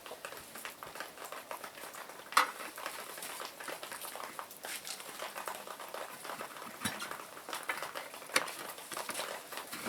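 Scattered metallic clicks and clinks of hand tools working on metal, with a sharper knock about two and a half seconds in.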